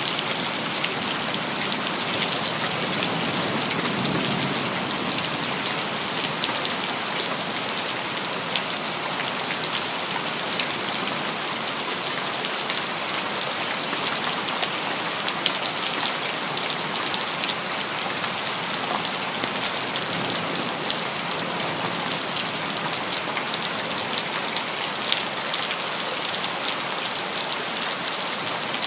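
Steady rain falling on hard surfaces, an even hiss with many separate drops ticking through it.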